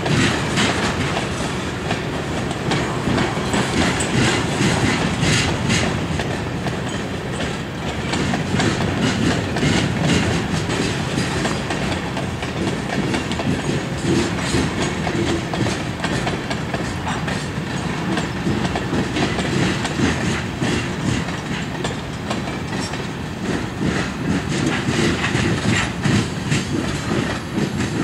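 A freight train of open-top hopper cars rolling steadily past, its wheels clacking over the rail joints again and again.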